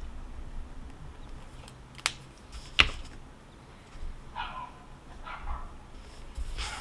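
Dog barking three times in the second half, short barks spaced about a second apart. Before them come two sharp clicks, the second of which is the loudest sound.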